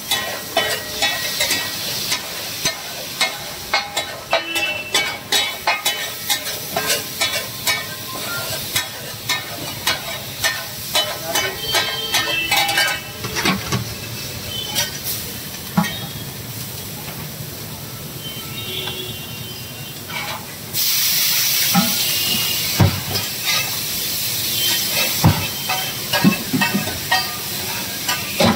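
Metal spatula scraping and clattering on a large flat tawa griddle as spices and tomato puree fry in hot oil, over steady sizzling. About two-thirds of the way through the sizzle turns suddenly louder and stays loud.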